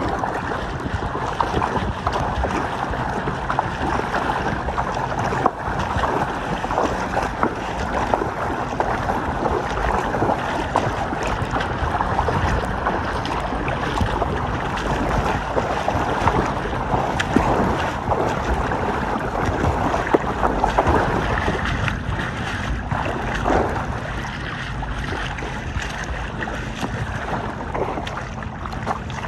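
Paddling on a lake: water splashing and sloshing around the paddle and the craft, with wind rumbling on the microphone.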